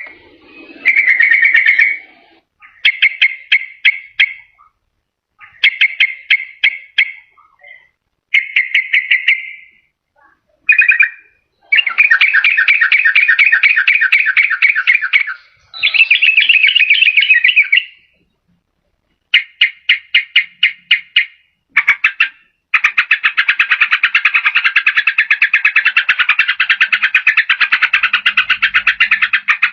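Yellow-vented bulbul song. Short phrases of quick, bubbly notes alternate with long, fast chattering trills, and one unbroken trill runs through the last part.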